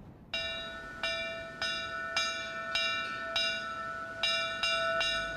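A metal bell struck repeatedly, about twice a second, each stroke ringing on with the same clear tones before the next.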